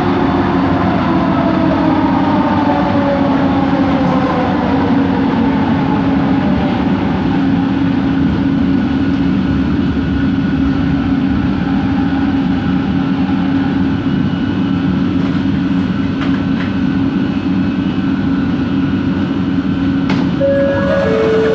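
Bombardier Innovia ART 200 train running: the linear induction motor whines in tones that fall in pitch over the first few seconds as the train slows, over a steady low hum and rolling noise. Two short steady tones sound near the end.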